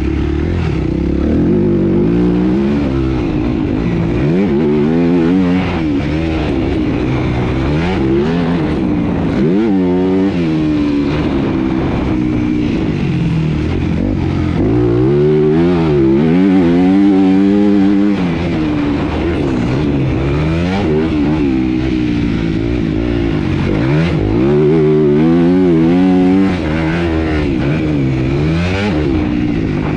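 Motocross bike engine being ridden hard, revving up and backing off over and over, its pitch sweeping up and down with throttle and gear changes.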